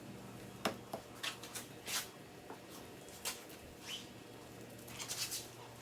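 Car detailing work: about half a dozen short squeaks and rubs scattered over a low steady hum, with a quick cluster of them near the end.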